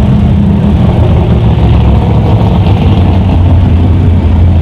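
Dodge Viper's V10 engine idling with a steady low rumble as the car rolls up and stages at a drag-race start line, with a second car idling alongside.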